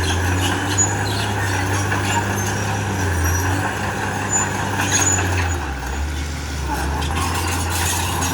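Komatsu bulldozer's diesel engine running steadily, its note dropping lower about two-thirds of the way through, with scattered light clanks from the tracks and rock being pushed.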